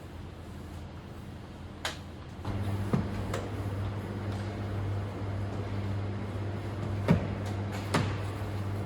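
A steady low electrical hum that gets louder about two and a half seconds in, with a handful of sharp knocks and clicks over it.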